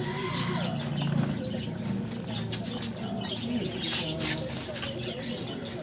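Pet birds chirping and cooing, with irregular sharp knocks and clatter.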